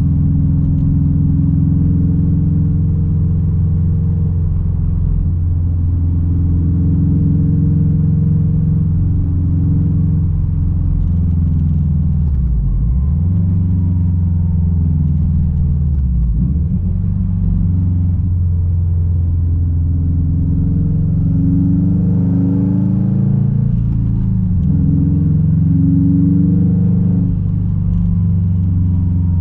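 2006 Subaru WRX STI's turbocharged 2.5-litre flat-four engine running loud through a straight-piped exhaust while driving. Its pitch holds steady, then dips sharply and climbs back about four times, rising during the latter part.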